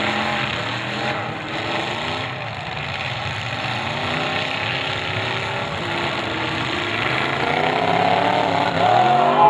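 Several demolition derby cars' engines running and revving at once, their pitch rising and falling; the revving grows louder near the end.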